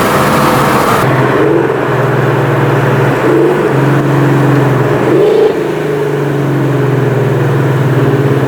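2018 Mustang GT's 5.0-litre V8 exhaust, breathing through long-tube headers, an X-pipe and the stock mufflers, running with a steady drone. The sound changes abruptly about a second in, and the pitch briefly rises a little about three and five seconds in.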